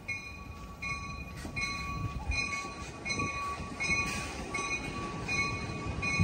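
Passenger train rolling slowly through a station with a low rumble and a couple of low thumps from the wheels. A bell rings steadily over it, about three strokes every two seconds.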